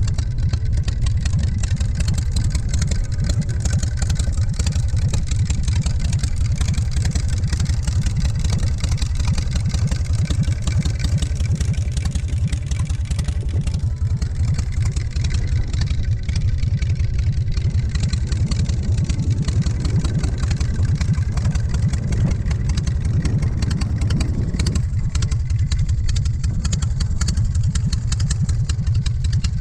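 V-twin motorcycle engine, a 113 cubic inch S&S in a custom Softail chopper, running steadily at idle with an even, rapid pulsing rumble.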